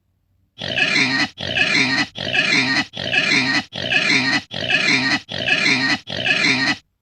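Pig calling eight times in short, evenly spaced calls, each under a second long.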